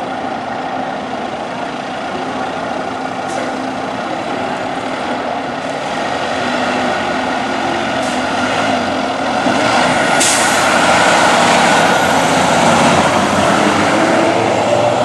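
Fire engine's diesel engine running steadily, getting louder in the second half as the truck moves off. About ten seconds in comes a sharp burst of air-brake hiss.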